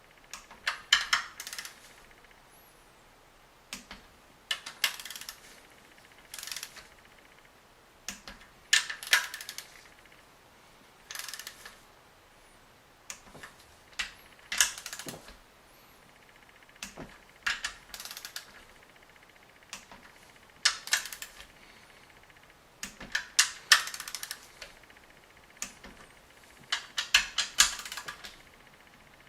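A ratcheting torque wrench tightening the camshaft bearing cap nuts on a BMW M52 engine to 14 N·m. It makes short bursts of quick ratchet clicks, one burst every couple of seconds.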